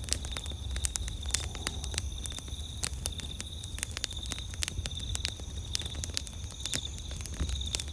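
Wood campfire crackling, with frequent sharp pops and snaps, over a steady high trill of night insects such as crickets.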